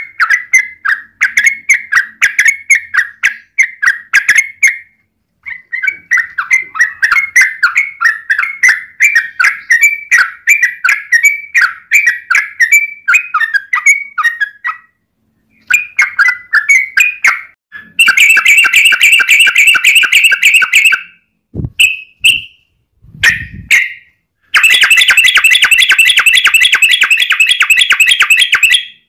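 Yellow-vented bulbul (trucukan) calling in long runs of rapid, bubbling notes, broken by short pauses. About two-thirds of the way in, the song turns into two longer, harsher and denser stretches of chatter.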